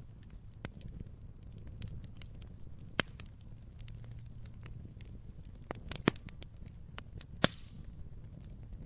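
Wood fire crackling: scattered small crackles and a few sharp pops, the loudest about three, six and seven and a half seconds in, over a steady low rumble.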